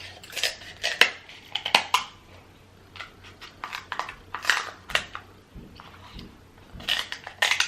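King crab leg shell being cut open, a run of sharp cracks and crunches in three spells.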